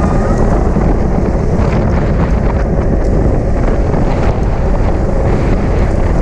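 Wind buffeting the microphone of a camera carried on a bicycle ridden at race speed: a steady, loud rumbling rush.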